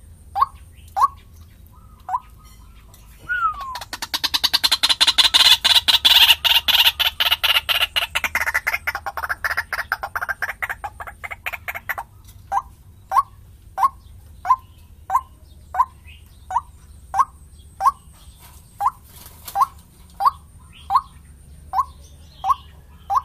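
White-breasted waterhen (ruak-ruak) calls played as a bird lure: a short rising note repeated about three times every two seconds. About four seconds in, a loud rapid chattering run takes over and fades over the next several seconds, then the single notes return.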